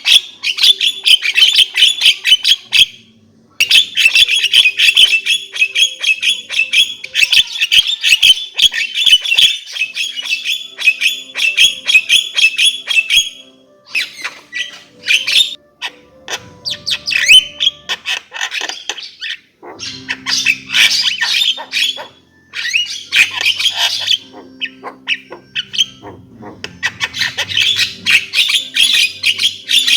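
Javan myna (jalak kerbau) calling in long, rapid runs of harsh chattering and squawks, with short breaks about three seconds in and again around the middle.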